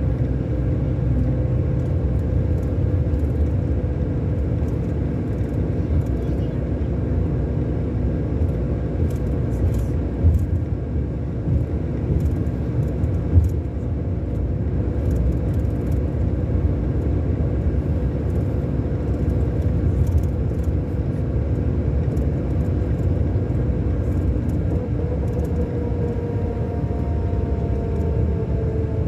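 Scania K-400 Euro 5 coach diesel engine running steadily with a low rumble. Its engine tones drop in pitch near the end as it slows.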